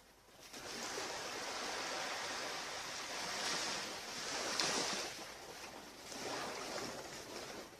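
Ocean surf washing onto a beach: a steady rushing hiss that swells and ebbs as waves break, loudest about halfway through and again near the end.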